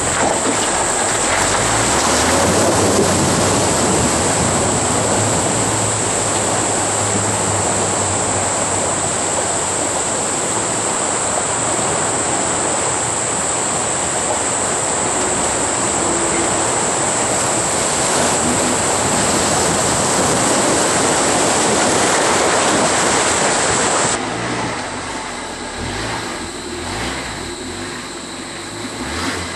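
Loud rushing and splashing water around a Suzuki Jimny 4x4 as it drives through a flooded river, with its engine running underneath. The water noise cuts off suddenly about 24 seconds in, leaving the engine running.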